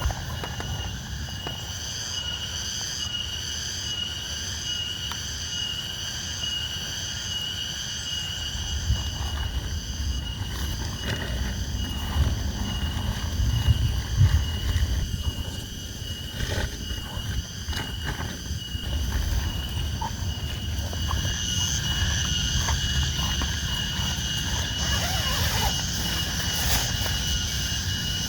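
Steady rain ambience at a campsite: a low rumble of rain and wind under a continuous high, pulsing chorus of insects, with scattered small ticks and taps.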